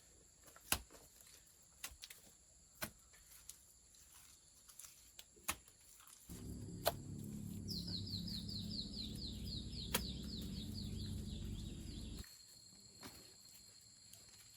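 A small bird sings a fast trill of repeated falling notes, about four a second, for several seconds in the middle. Under it a low rumble starts and stops abruptly, lasting about six seconds, and scattered sharp knocks come throughout.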